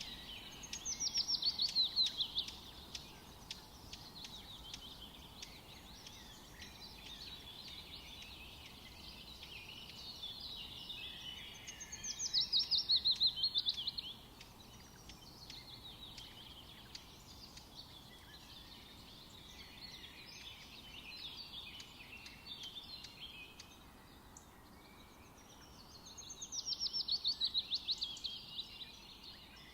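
Forest birdsong: one bird sings a rapid trilled phrase about two seconds long that falls in pitch, three times roughly twelve seconds apart, over softer continuous chirping of other birds.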